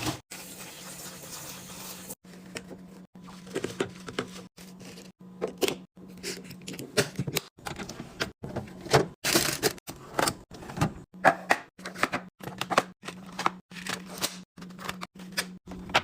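Quick clicks, taps and knocks of plastic containers and items being handled and set down while a fridge is restocked, over a steady low hum.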